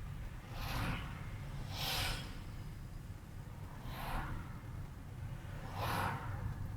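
Inside a moving car: a steady low rumble of engine and road noise, with a short hissing whoosh every second or two.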